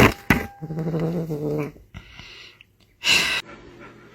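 A pet's drawn-out vocal call lasting over a second, followed by a short hiss-like noise and a brief loud noisy burst about three seconds in.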